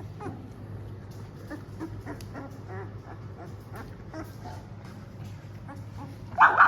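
A litter of two-week-old Labrador retriever puppies whimpering and squeaking, many short high cries scattered throughout over a steady low hum, with one much louder yelp near the end.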